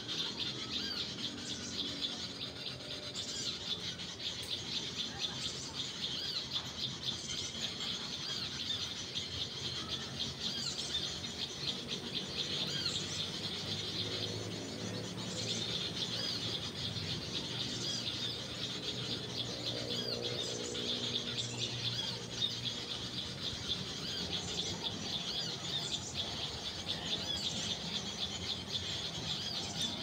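Small birds chirping and squeaking, high-pitched and continuous, with dense quick calls repeating throughout.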